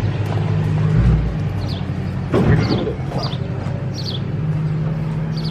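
Electric blower running steadily, blowing dust out of an RV furnace around its sail switch, with a low thump about a second in. A few short, high, falling bird chirps sound over it.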